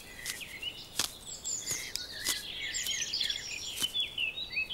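Small songbirds chirping and twittering, with many short high calls overlapping, and a few sharp clicks scattered through.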